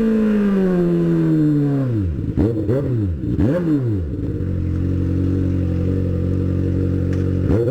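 Motorcycle engine revved hard by its rider, the revs falling away over the first two seconds. Two quick throttle blips follow, then it idles steadily until the throttle is blipped again right at the end.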